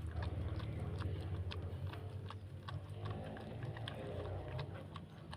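Mother dog licking and chewing during whelping: irregular wet clicks, several a second, over a steady low hum.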